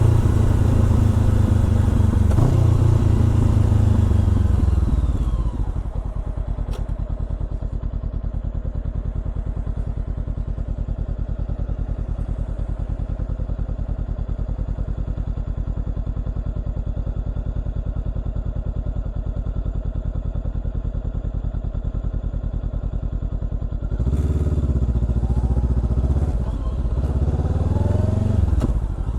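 Honda CBR400R parallel-twin engine through a Trick Star Ikazuchi exhaust: revs falling as the bike slows for the first five seconds, then idling steadily. About 24 seconds in it pulls away, revs rising and dipping twice.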